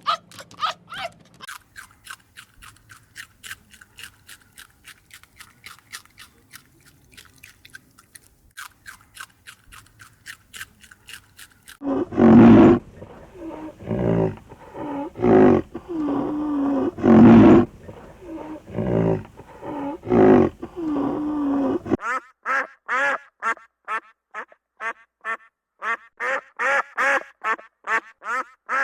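A series of animal calls in three runs: fast, high, repeated calls at about four a second, then loud low calls lasting about ten seconds, then fast repeated calls again near the end.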